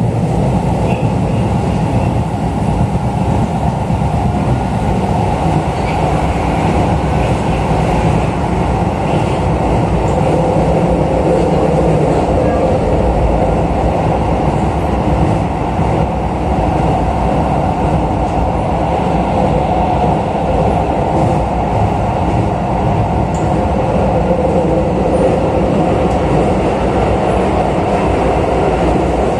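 Interior running noise of a Keisei New 3000 series electric commuter car in motion: a steady rumble of the train running along the track, heard from inside the passenger cabin.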